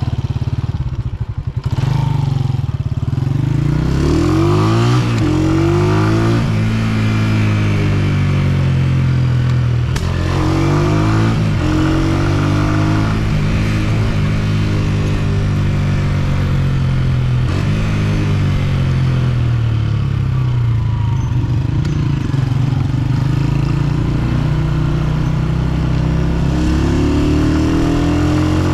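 Honda CG125's single-cylinder four-stroke engine riding under way, its pitch rising several times as it accelerates and dropping back at each gear change.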